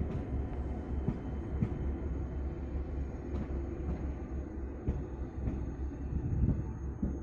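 Stadler FLIRT electric multiple unit passing on a far track: a steady low rumble of the train running, with occasional faint clicks.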